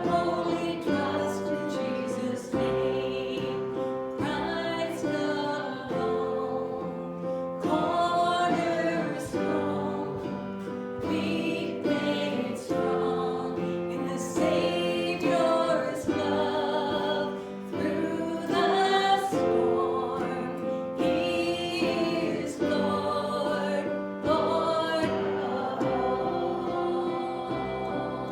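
Congregational worship song: several voices singing with a keyboard accompaniment, in phrases held and gliding into one another.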